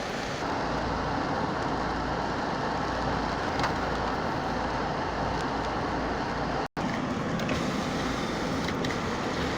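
Car driving on a wet road in the rain: steady tyre and road noise. It cuts out for an instant about seven seconds in.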